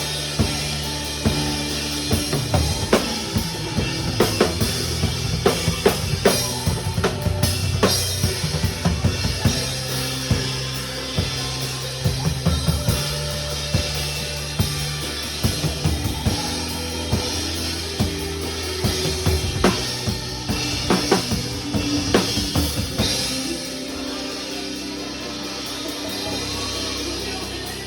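Drum kit with bass drum, snare and cymbals playing along to a Brazilian gospel worship song; the drums stop about 23 seconds in while the song's bass and other instruments carry on.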